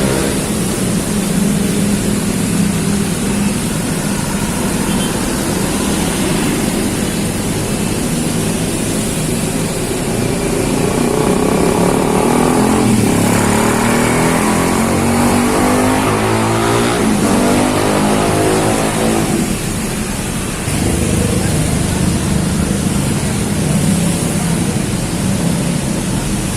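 Motor vehicle engines passing on a street, their pitch rising and falling, over a steady hiss of heavy rain.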